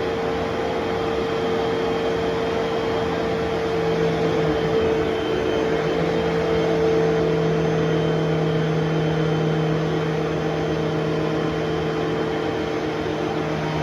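Vacuum cleaner motor running steadily, a constant hum with a whooshing airflow, its pitch dipping slightly about five seconds in.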